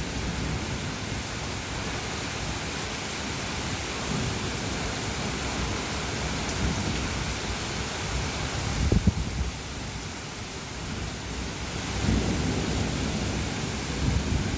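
Thunderstorm: rain falling steadily, with rolling rumbles of thunder, one about two-thirds of the way in and another swelling near the end.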